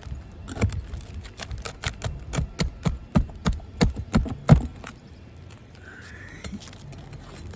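A hammer striking roofing nails down into the shingles, a quick run of sharp blows, about four a second, that stops after about four seconds.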